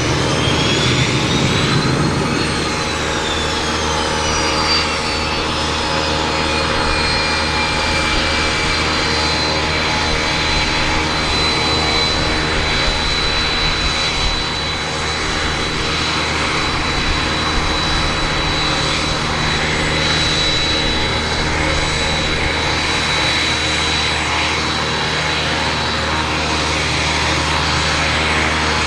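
Cessna Citation I/SP's twin Pratt & Whitney Canada JT15D turbofans running on the ground during an engine test, a steady jet roar with a high whine. The whine climbs in pitch for about two seconds, falls back, then holds steady.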